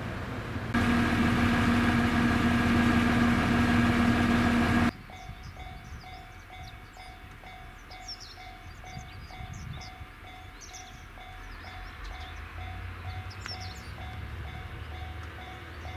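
A loud steady engine hum for about four seconds that cuts off abruptly. Then a bell rings in a quick regular rhythm, with birds chirping and a low diesel rumble from the railcar waiting at the platform, growing toward the end.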